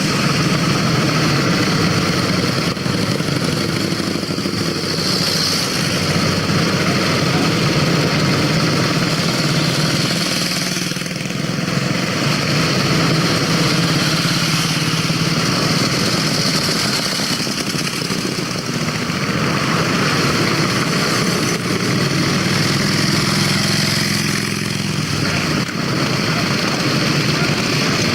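Antique motorcycle engines running, a steady putter of fast, even firing pulses that eases slightly a couple of times.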